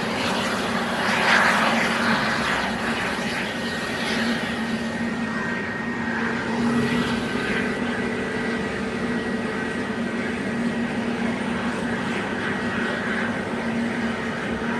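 Airbus A320neo's CFM LEAP-1A turbofan engines running steadily, a continuous rushing hum with a thin high whine held on one pitch.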